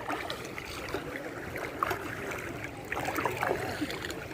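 Beach ambience: a steady wash of sea and surf noise, with distant voices and shouts of people bathing heard faintly a few times.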